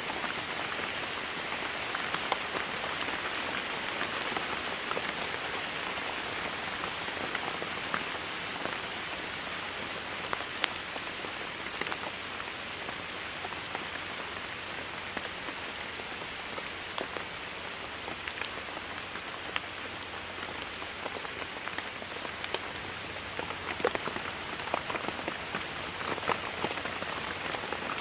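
Steady rainfall with individual drops pattering and ticking on a surface, an even hiss with scattered sharper drop hits.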